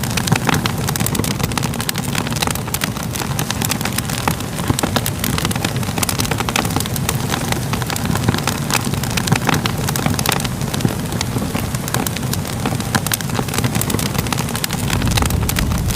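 Wood fire burning, with a steady low rumble and frequent irregular pops and crackles.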